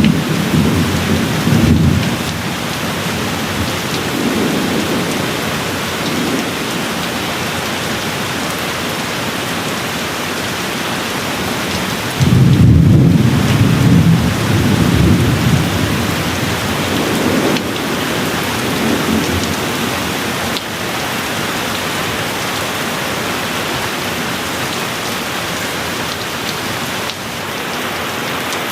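Steady rain with rolling thunder. A low rumble dies away in the first two seconds, and a louder one breaks in suddenly about twelve seconds in and rolls on for several seconds.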